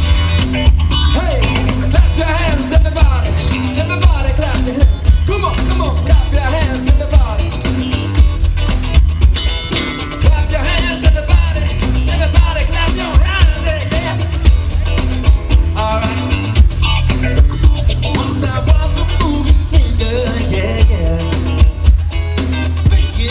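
Live rock band playing an upbeat number, with a heavy bass line, drums and guitar, and a voice singing.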